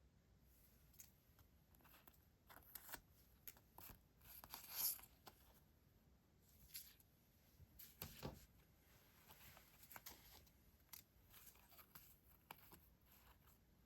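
Paper stationery handled close to the microphone: faint, crisp rustling and crinkling of paper and sticker sheets with scattered light taps. The loudest rustle comes about five seconds in, and a soft thump near eight seconds.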